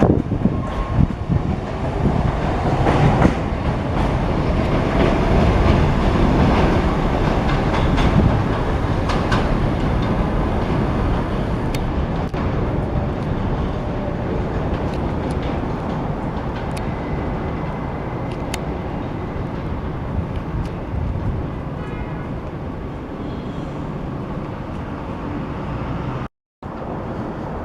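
A New York City subway train running through the station, wheels clattering over rail joints with a steady heavy rumble. It is loudest in the first few seconds and eases off slightly, then cuts out for a moment near the end.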